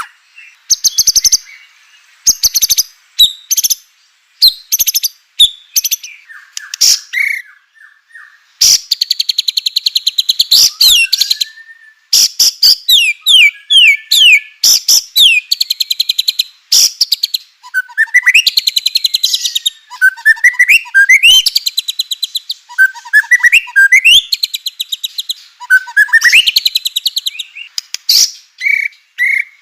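White-rumped shama (murai batu) singing loudly: fast rattling runs of repeated notes alternate with short gaps and with sliding whistles that rise and fall.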